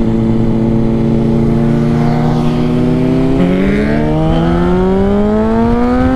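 Honda CBR600RR inline-four through a Two Brothers full exhaust, running at a steady speed, then rising steadily in pitch from about halfway as the bike accelerates.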